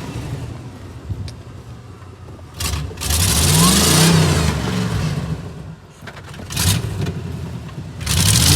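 A vehicle's engine revving hard in bursts, its pitch rising about three seconds in and again near the end, with a loud rushing hiss like wheels spinning in snow: the vehicle is stuck in the snow.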